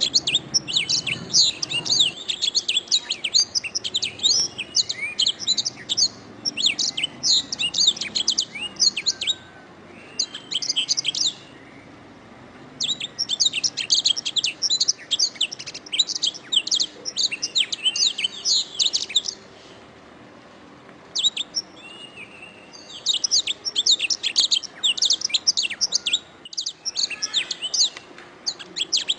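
Domestic canary singing: long runs of rapid, high-pitched trills and chirps, broken by short pauses of a second or two.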